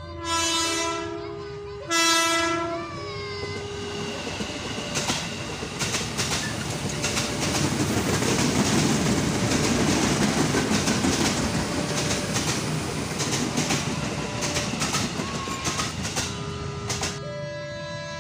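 JR 205 series electric commuter train sounding two horn blasts as it approaches, then running past close by with the clatter of its wheels over the rail joints, loudest about halfway through and dying away near the end.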